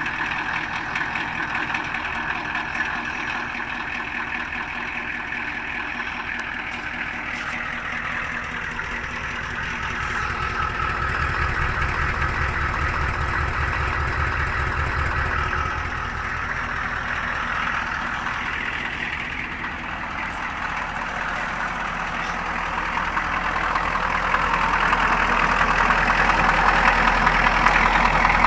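Ford 6.9-litre IDI V8 diesel of a 1985 F-250 idling just after a cold start, with a steady rhythmic clatter. It gets louder about ten seconds in and again over the last few seconds.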